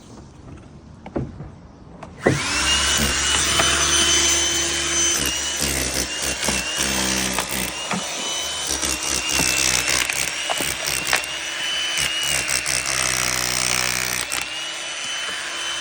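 An electric power tool starts about two seconds in and runs with a high motor whine that wavers as it works under load, easing off a little near the end.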